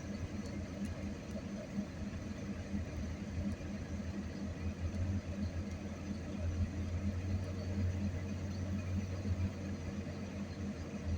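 Hyundai excavator's diesel engine running steadily with a constant low hum.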